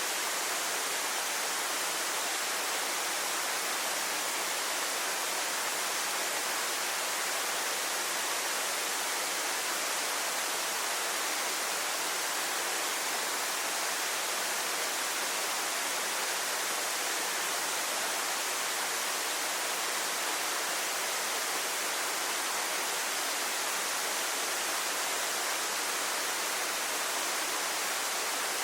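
A waterfall's steady rush of falling water, an even hiss that stays the same throughout.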